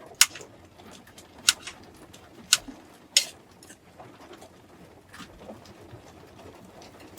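Utensils clinking against cookware: four sharp clinks in the first three and a half seconds, then two fainter ones.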